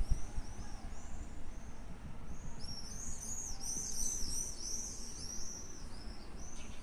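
Small birds chirping: a fast run of short high chirps, about four a second, faint at first and thickest from about two and a half seconds in, over a low rumble.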